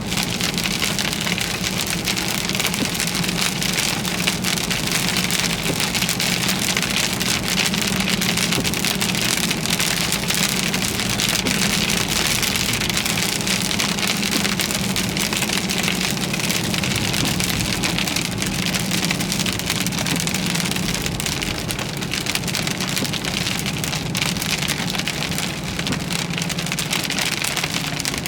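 Heavy rain pelting a moving car's roof and windshield, a dense, steady patter, with a steady low hum underneath.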